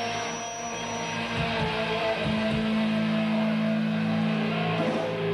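Live metal band playing, with distorted electric guitar and bass guitar holding long low notes that stop near the end.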